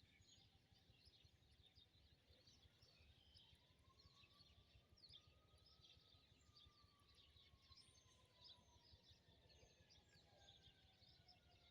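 Faint chirping of small birds at a feeder: many short, high chirps scattered throughout. Under them runs a faint, long, low tone that slowly rises and then falls in pitch.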